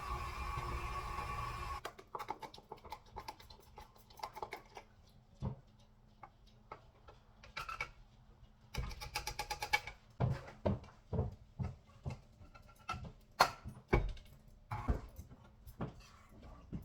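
Background music for about two seconds, cut off abruptly. Then a series of irregular sharp clicks and knocks, with a rapid rattle lasting about a second near the middle and louder knocks in the second half.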